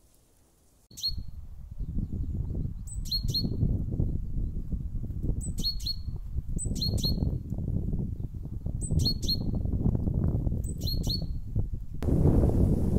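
Small songbird calling short, sharp high notes, mostly in quick pairs every couple of seconds, over a loud, uneven low rumbling noise that starts about a second in and grows louder near the end.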